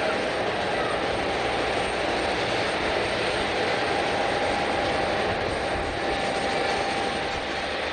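Jet airliner's engines running, a steady rushing noise with a faint high whine that holds even throughout.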